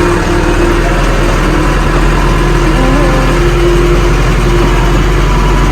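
AGCO 6670 loader tractor's diesel engine running steadily, with faint stepping tones over it.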